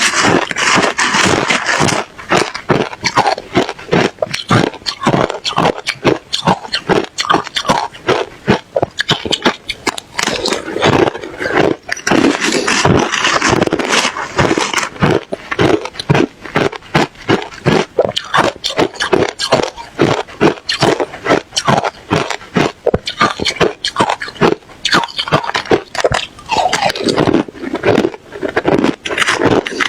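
A person chewing and crunching ice close to the microphone: dense, rapid, crisp crunches, several a second, without a pause.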